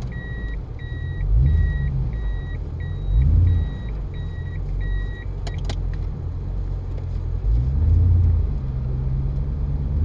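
Car engine running with a low rumble that swells several times as it is revved. Over it, an electronic beep repeats about twice a second for the first five seconds, then a sharp click.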